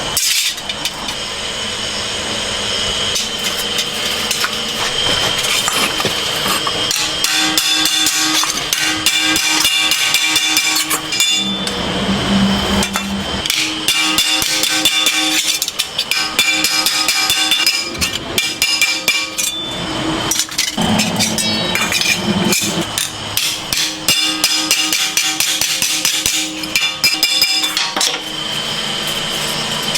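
Rapid, repeated hammering on metal, the strikes coming thick and fast with a steady ringing tone behind them, broken twice by brief pauses.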